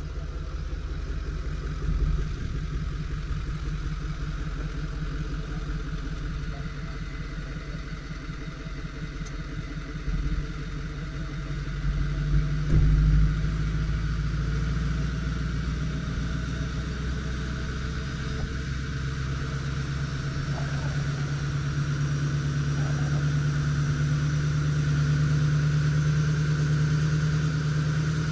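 Ford F450 recovery truck's engine idling steadily, with a few knocks about twelve seconds in. The idle grows a little louder toward the end.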